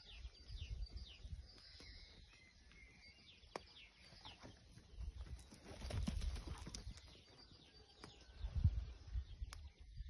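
Small birds chirping and singing, many short calls overlapping. Low thuds and rumbles close to the microphone come and go, loudest about halfway through and again near the end.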